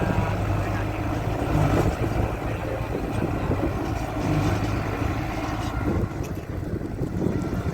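Farm tractor engine running steadily at low revs.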